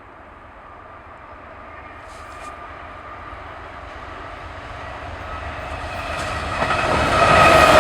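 Norfolk Southern train approaching, its rumble growing steadily louder and rising sharply near the end as it draws close, with a steady high whine coming in over it.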